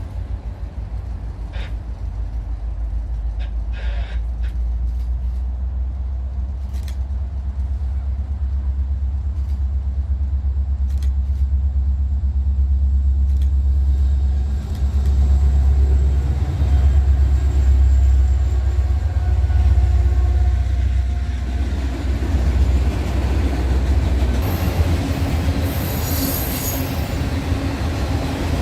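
Train rolling past with a deep, steady rumble that grows louder past the middle, scattered sharp clicks in the first half, and a high wheel squeal near the end.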